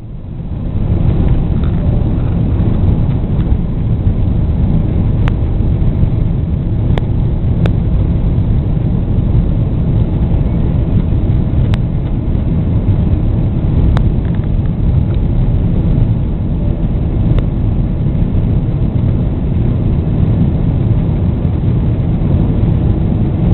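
Jet airliner taking off, heard from inside the cabin: a loud, steady low rumble of engines at takeoff power and wheels on the runway, building up within the first second, with a few sharp clicks of cabin rattles.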